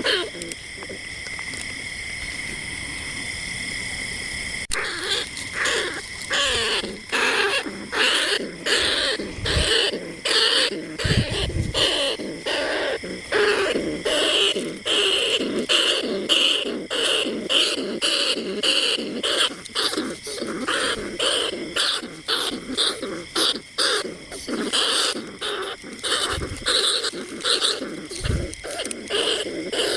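A recording of rats squeaking: a rat-call lure for bandicoot rats and rice-field rats. It opens with a steady high tone, then about five seconds in breaks into a fast, dense run of short squeaks and chatters that goes on without a pause.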